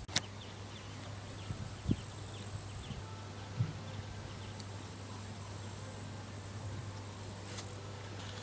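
Crickets chirping in a high, steady trill that breaks off about three seconds in, starts again and stops near the end. A steady low hum runs underneath, with a sharp click just after the start and a couple of soft low thumps.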